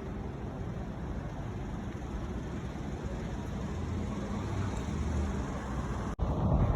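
Wind rumbling on the microphone, a steady low rush that slowly builds. Near the end it breaks off for an instant and comes back as stronger, gustier buffeting.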